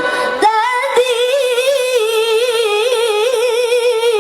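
Melodic Quran recitation (tilawah) by a single high voice. After a short upward slide near the start, it holds one long, wavering, ornamented note (melisma).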